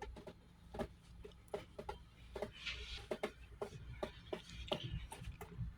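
GE Spacemaker laundry center washer sensing its load: irregular clicking and ticking, about two or three clicks a second, over a faint low hum.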